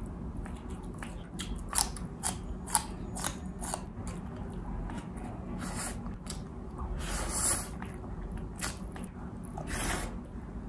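Close-miked chewing and biting of food: irregular sharp mouth clicks and smacks, several a second, with a couple of longer wet sounds about seven seconds in and near the end.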